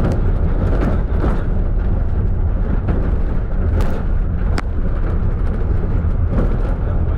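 Route minibus running with a steady low rumble, and two brief sharp clicks about four seconds in; no brake whistle is heard.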